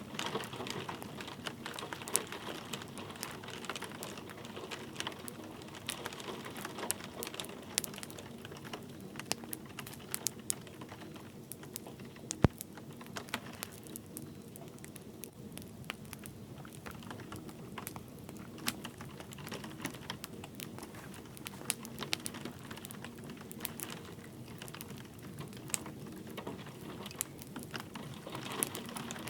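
Wood fire crackling, with frequent small snaps and one loud pop about halfway through, over a steady hiss of light rain.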